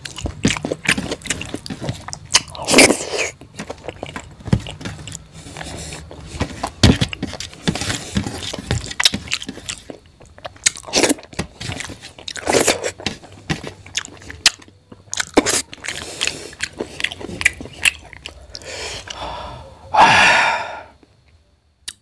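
Close-miked chewing and wet mouth smacks of a man eating rice and curry, with his fingers scraping rice across a steel plate. A longer, louder mouth sound comes near the end.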